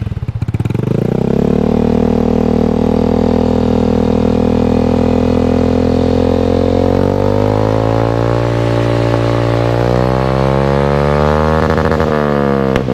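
Yamaha Mio i 125 scooter's single-cylinder four-stroke engine running through a Villain carbon aftermarket muffler during a sound check. It catches and settles into a steady idle, the revs creep up from about seven seconds in, and near the end the throttle is blipped so the pitch rises and falls.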